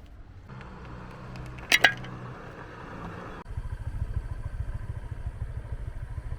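A sharp clatter a little under two seconds in. Then, starting abruptly about three and a half seconds in, a low rapid rumble of a small engine running.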